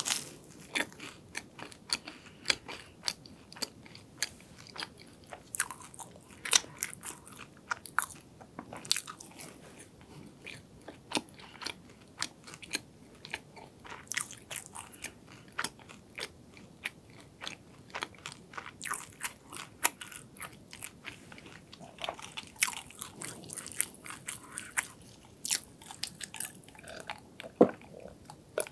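Close-miked chewing of a croffle, a crisp waffle-pressed croissant, with many small sharp crunches and crackles as the crust breaks. Near the end come a few softer, lower gulping sounds as a drink is taken.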